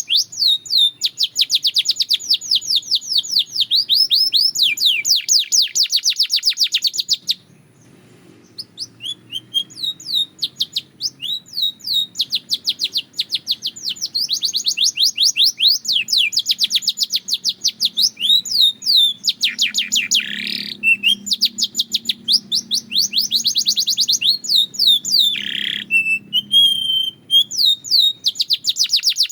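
Belgian canary singing: long runs of rapid trills, many notes a second, with a brief pause about a quarter of the way in and a few lower sweeping notes later on.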